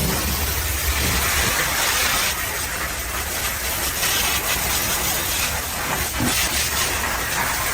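High-pressure washer spraying water onto a truck: a steady hiss, with a low hum underneath that eases after about a second.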